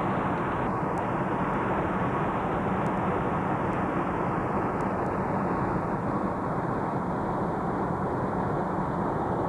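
Steady engine and road noise inside a moving car.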